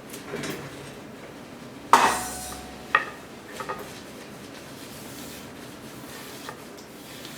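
Metal hand tools clattering on a hard workbench: one loud clatter about two seconds in with a brief ringing tone, a sharper knock a second later and a couple of light taps, then faint rubbing.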